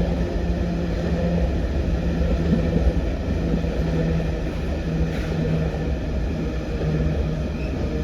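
A diesel train's engine running with a steady low hum over a deep rumble.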